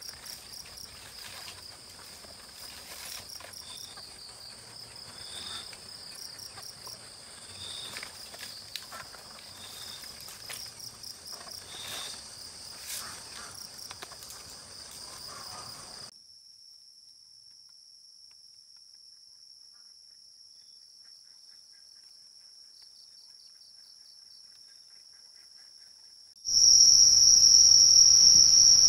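Night chorus of crickets, a steady high-pitched trill, with a second insect giving short chirps about every second and a half and scattered crackles of twigs being handled on the forest floor. About halfway through the handling noise stops and only a quieter trill remains, then near the end the trill becomes much louder.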